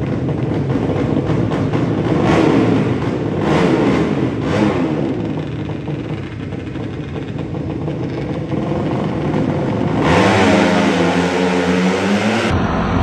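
Drag-racing motorcycle engines revving hard, the pitch rising and falling in surges. About ten seconds in, a new engine note takes over, sweeping up and down in pitch, and near the end the sound changes abruptly.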